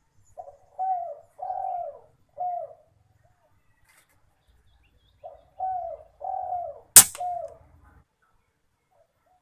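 Spotted dove cooing: a four-note phrase (a soft short note, two longer notes, then a short one), given twice about five seconds apart. During the second phrase a single sharp gunshot goes off.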